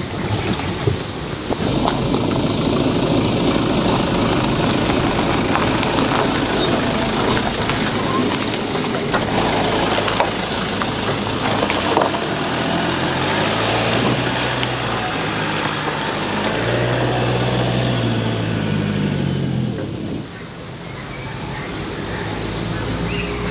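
A motor vehicle's engine running with a steady rush of road noise, and a low engine hum that shifts in pitch through the middle and fades about 20 seconds in.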